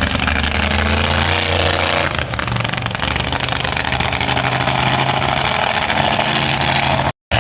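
Monster truck engine revving hard during a run, its pitch stepping up and down over a loud roar. The sound drops out completely for a moment near the end.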